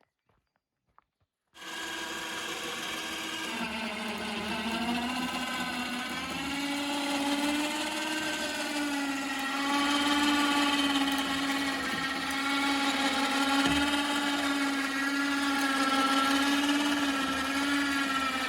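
The winch on a Dnepr sidecar motorcycle running under load, a steady motor whine that wavers slightly in pitch as it hauls the bike, stuck on its frame, free. It starts suddenly about a second and a half in.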